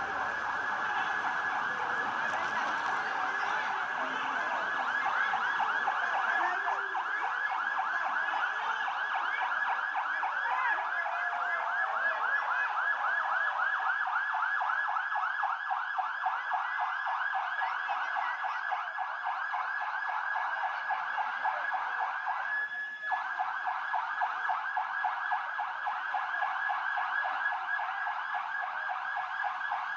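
Siren sounding in a rapid repeating warble, steady and unbroken except for a brief dropout near the end.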